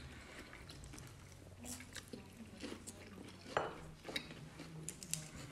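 Scattered light clinks and taps of cutlery on plates during a meal, with a few louder taps.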